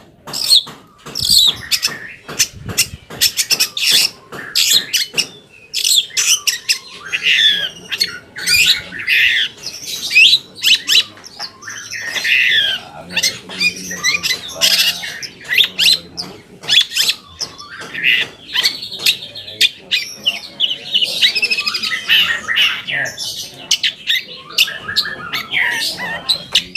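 Long-tailed shrike (cendet) singing a loud, varied song. It opens with about five seconds of rapid, harsh clicking and chattering notes, then runs on in quick sweeping, whistled and chattering phrases with only short breaks.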